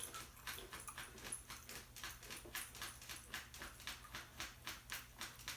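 Close-up chewing of crunchy tortilla chips, a steady run of short crunches about three or four a second.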